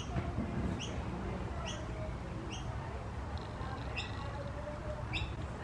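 A bird chirping over and over: about six short rising chirps, roughly one a second.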